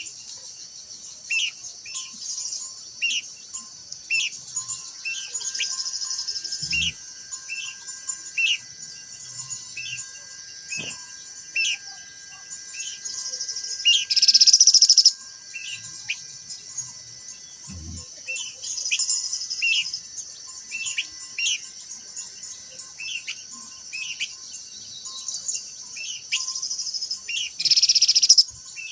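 A minla (khướu lùn) calling in short, sharp chirps about once a second over a steady high-pitched insect buzz. There are two louder, hissy bursts, one about halfway through and one near the end.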